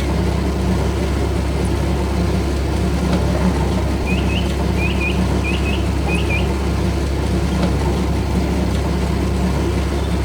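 Steady low rumble of a heavy vehicle engine running, with a string of quick bird chirps between about four and six and a half seconds in.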